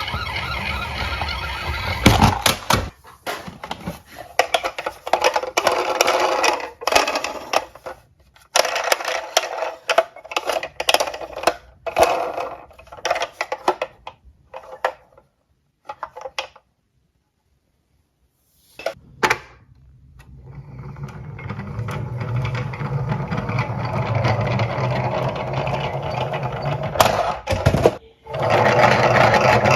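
Small diecast toy cars clattering and rolling on a slope: a string of clicks and rattles, a few seconds of dead silence, then a steady rolling rumble that grows louder and breaks off briefly near the end.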